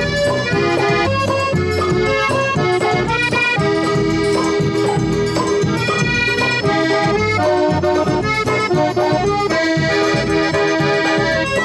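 Accordion playing an instrumental melody over a steady rhythm-section beat in a Brazilian traditional-style song, with no singing.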